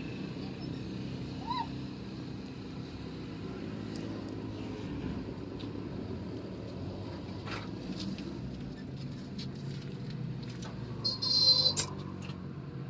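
Steady low motor hum with scattered light clicks and knocks, and a brief, loud, high-pitched sound about eleven seconds in.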